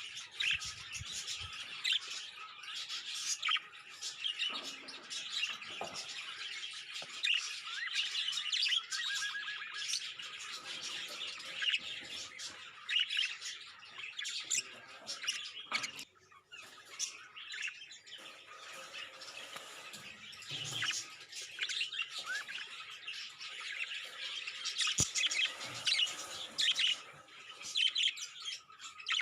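Budgerigars chattering: a continuous stream of quick, high chirps.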